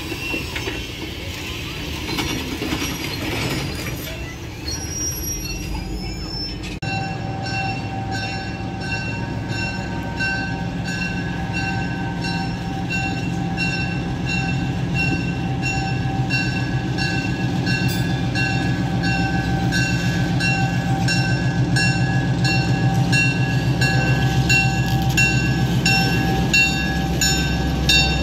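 Train rolling along the track with a low rumble that grows louder. From about seven seconds in, a bell rings in a steady, even rhythm.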